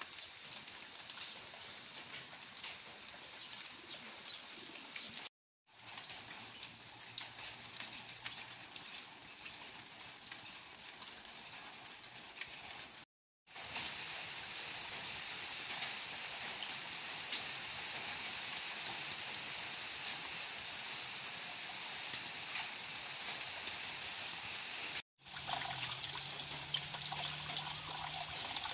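Steady rain falling on leaves and a tiled patio, a dense patter of drops, broken by three brief silences. In the last few seconds it is louder: rainwater pouring from a PVC downpipe splashes into a plastic basin full of water.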